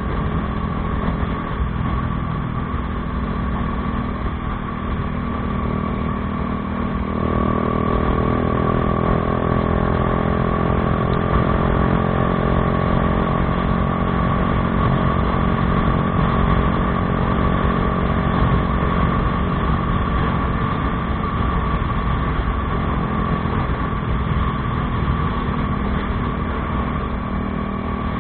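Bajaj Dominar 400's single-cylinder engine running through an aftermarket Akrapovič exhaust, a steady exhaust note that grows a little louder, with its pitch gently shifting, about seven seconds in.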